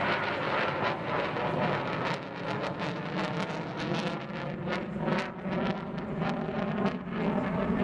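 Wind buffeting the camera microphone over a steady outdoor rumble, with a run of crackles in the middle.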